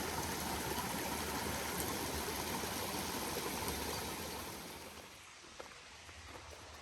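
Shallow forest stream running over stones, a steady rush of water that fades down about four to five seconds in, with a few faint taps near the end.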